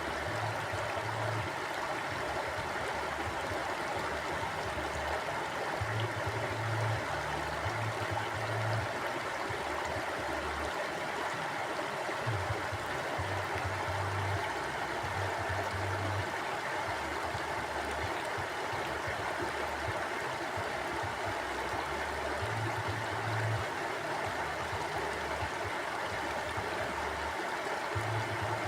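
Mountain stream flowing: a steady rush of water, with a low rumble underneath that comes and goes.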